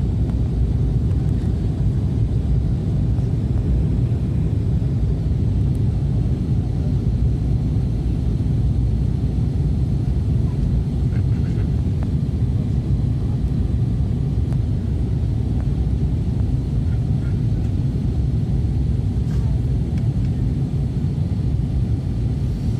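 Airliner cabin noise: a steady low rumble of the engines and airflow during the descent, unchanging throughout, with a faint high hum above it.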